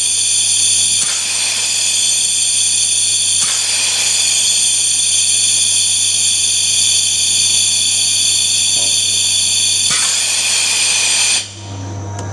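OKACLEAN-G's high-speed blower running with a loud, steady high-pitched whine. It shuts off near the end, leaving a low hum.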